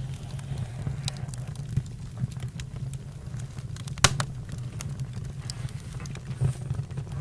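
Campfire burning: a steady low rumble with irregular crackles and pops, one sharp loud pop about four seconds in.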